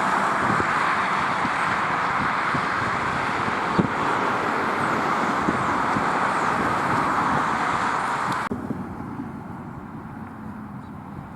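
Roadside traffic noise: the steady rush of tyres and engines of passing vehicles, with a single knock about four seconds in. About eight and a half seconds in it cuts off abruptly to a much quieter background.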